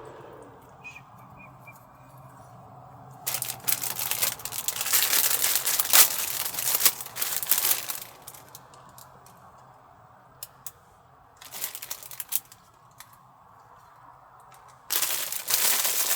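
Rustling and crinkling, as of packaging or a bag being handled, in three bursts: a long stretch starting about three seconds in, a brief one past the middle, and another near the end.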